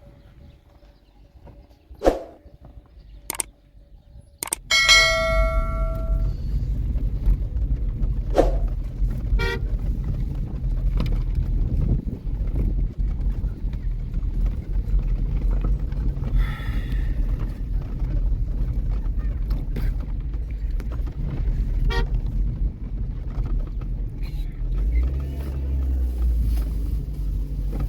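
A vehicle horn sounds one short toot about five seconds in. At the same moment a vehicle's steady low rumble starts and carries on, with a few faint clicks before it.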